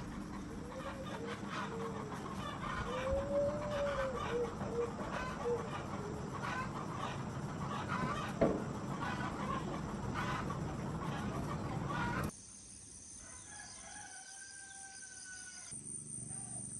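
Chickens: a rooster crowing a couple of seconds in, with clucking and short chirps throughout. About twelve seconds in, the sound cuts suddenly to something quieter, with a steady high insect buzz.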